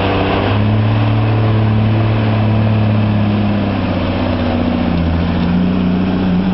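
Semi-truck diesel engine running hard under heavy load in a truck pull, a loud steady drone. Its pitch drops a little near the end.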